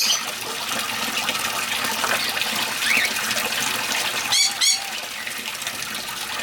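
Steady splash of water falling from a koi pond's filter back into the pond, with caged aviary birds chirping a few times and squawking loudly twice in quick succession about four and a half seconds in.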